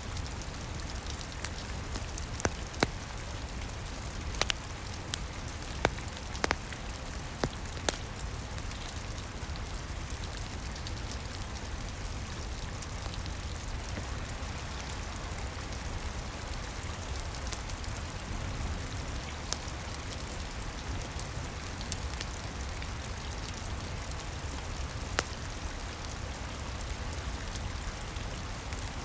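Steady rain heard from indoors, with a fireplace fire crackling: a handful of sharp pops, most of them in the first eight seconds and one more near the end.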